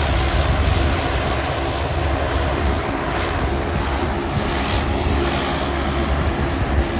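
Turboprop airliner's engines and propellers running steadily with a constant low hum.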